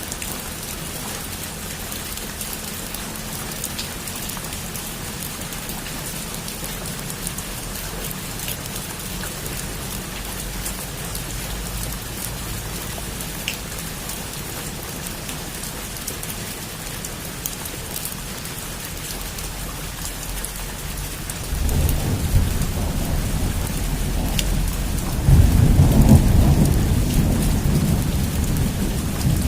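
Heavy rain falling on a roof as a steady hiss of drops. About two-thirds of the way through, a low thunder rumble comes in and swells louder a few seconds later.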